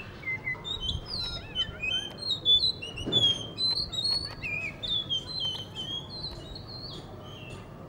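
Blue whistling thrush singing: a long run of clear, whistled notes that slide up and down, dying away about a second before the end.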